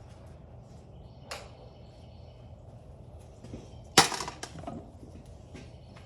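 A sharp metallic clank about four seconds in, with a short ringing tail and a few quick lighter clicks after it, and a single lighter click earlier: hand tools or metal parts being handled and set down while a dirt bike is taken apart.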